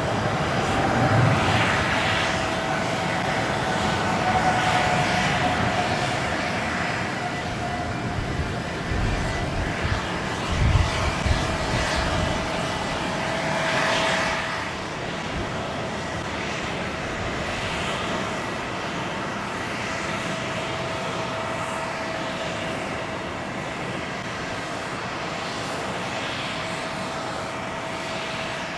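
Jet airliner engines at takeoff thrust: a loud, crackling jet noise with a steady whining tone. The noise eases slightly about halfway through as the aircraft moves off.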